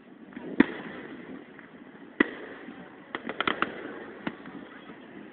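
Aerial fireworks bursting: a loud bang about half a second in, a second bang near two seconds, then a quick run of sharp cracks in the middle, over a continuous background haze of sound.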